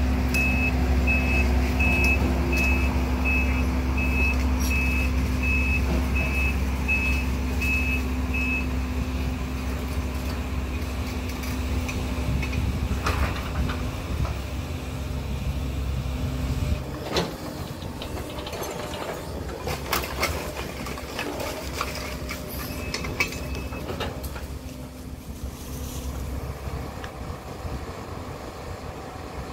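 Link-Belt tracked excavator's diesel engine running while its travel alarm beeps steadily, about one and a half beeps a second, for the first several seconds and again briefly later. The engine sound drops away a little over halfway through, with occasional metal clanks.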